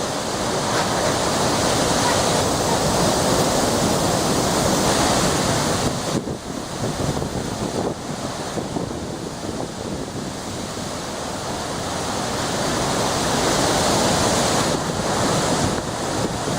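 Hurricane Sandy's storm wind blowing hard across the microphone in gusts, a steady rushing noise that eases a few seconds in and builds again near the end.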